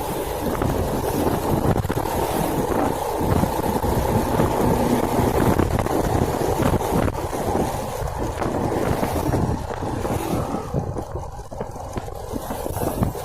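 Wind buffeting the microphone over the running of a small motorcycle on the move, a dense steady rumble with no clear engine note.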